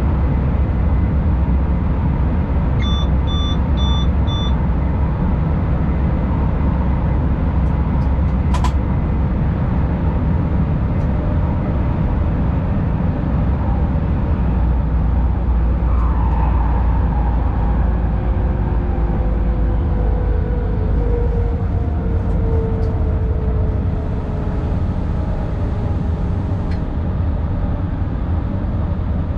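SBB ICN tilting electric train running at speed through a tunnel, heard from the driver's cab as a steady, deep rumbling drone. A run of four short beeps comes about three seconds in, and a whine falling in pitch comes around the middle.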